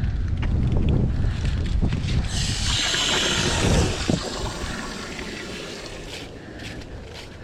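Wind buffeting the microphone with a heavy low rumble that eases off in the second half, and a hissing rush lasting about a second and a half near the middle.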